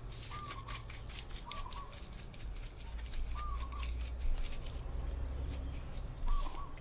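Garlic salt shaker rattling in many quick shakes over a whole fish. A bird gives four short, wavering calls.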